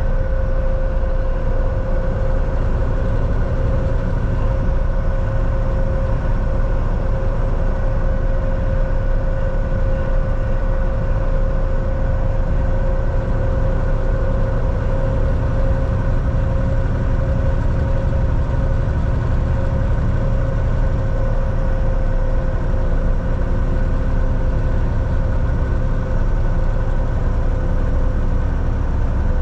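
Volvo VNL 760 semi-truck heard from inside the cab while driving: a steady engine drone and road rumble, with a constant hum over it.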